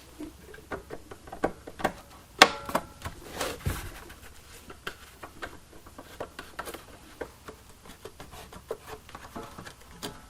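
Hand tools and metal engine parts being handled and worked, a string of irregular clicks, clinks and knocks, with one sharp metallic clank that rings briefly about two and a half seconds in.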